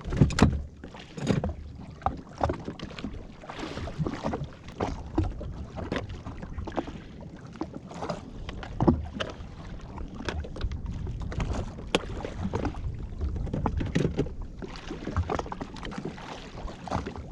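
Water slapping and knocking irregularly against a drifting jet ski's hull, with wind buffeting the microphone.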